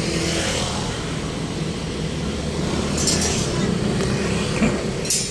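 Street traffic: a steady low engine rumble of passing vehicles, with short hissing bursts about three seconds and five seconds in.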